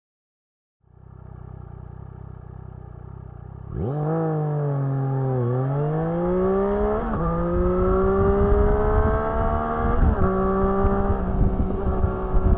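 Triumph Street Triple S 660 inline-three engine idling, then launched hard under full throttle: the revs sag as the clutch bites, then climb, with quick upshifts about 7, 10 and 11 seconds in. The engine is restricted to 35 kW for the A2 licence.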